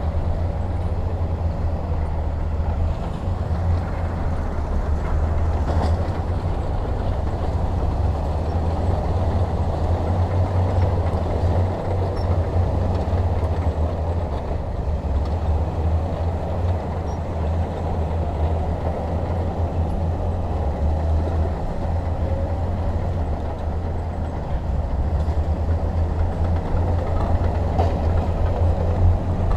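Heavy diesel engine running steadily under load, a deep continuous rumble with a rough, noisy upper layer and no pauses.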